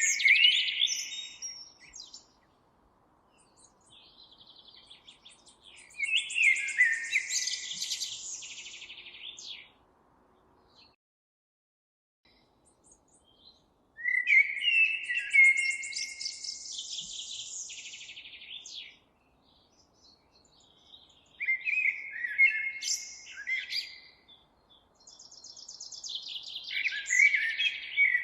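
Songbird singing in repeated phrases of rapid high chirps and trills, each phrase several seconds long with short pauses between.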